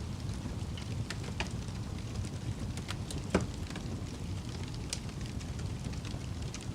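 Campfire burning: wood crackling with scattered sharp pops over a steady low rumble of flames, with one louder pop about halfway through.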